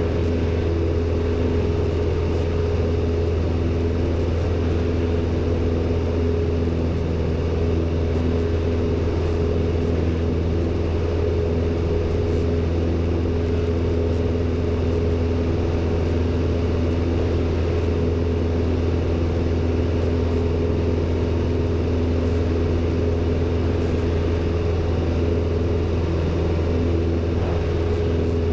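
Robin DR400-120's four-cylinder Lycoming engine and propeller droning steadily in flight, heard inside the cabin as a deep, even hum with a few steady tones above it.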